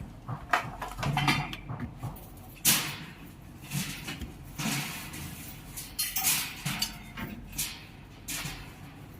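Irregular clicks, knocks and scraping of tools and metal parts being handled while a starter motor is worked on, with sharper knocks about half a second and nearly three seconds in.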